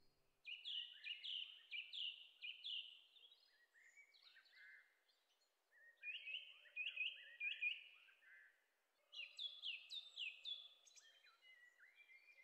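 A bird singing: three runs of quick, downward-sliding chirps, several a second, with short pauses between the runs.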